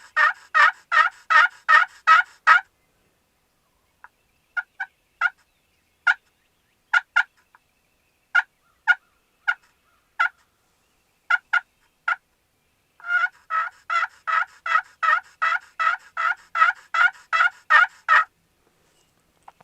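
Turkey yelping: a long run of yelps at about three a second, then scattered single notes, then a second long run of yelps about thirteen seconds in.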